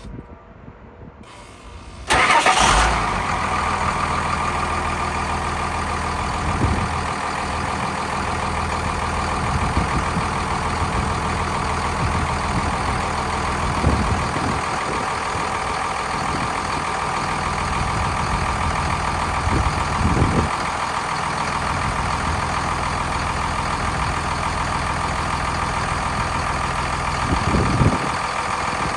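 2000 Cummins ISB 5.9-litre inline-six diesel engine starting about two seconds in with a loud burst, then idling steadily.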